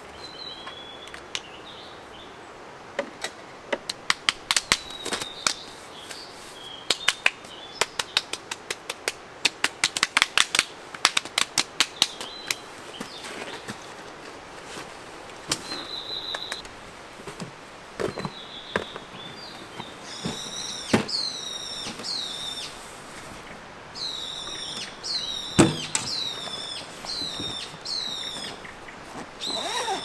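Small birds calling: short high notes, and in the last third a repeated series of quick falling notes, about one a second. Through the first half, a run of sharp clicks or taps, several a second, are the loudest sounds.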